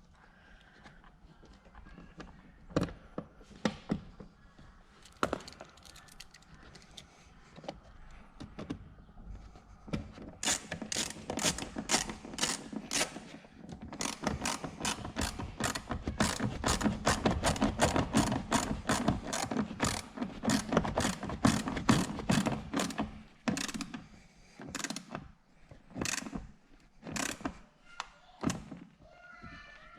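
Hand ratchet clicking in quick, even strokes for about a dozen seconds, after scattered knocks of tools and parts. Near the end it slows to single clicks about once a second.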